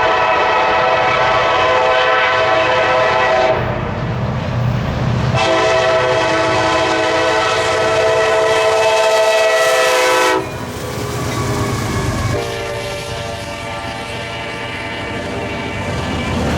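Air horn of an EMD SD70ACe locomotive leading a freight train, sounding three long blasts; the last blast is fainter. The locomotive's diesel engine rumbles low between the second and third blasts.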